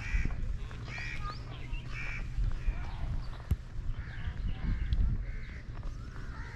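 Birds calling outdoors: short, repeated calls, roughly one a second, over a steady low rumble.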